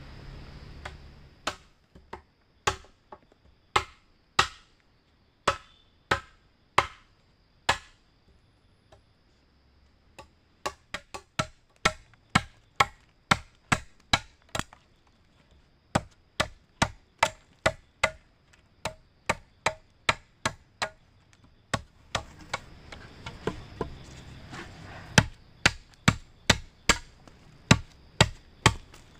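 Wood being chopped with a blade: many sharp hacking strokes, irregular, one to three a second, some with a short hollow ring. A quicker run of strokes comes in the middle.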